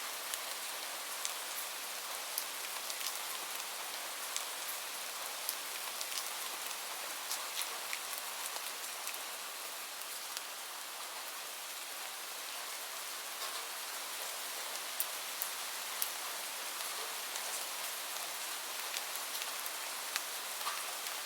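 Steady rain hiss, with scattered sharp clicks and pops throughout.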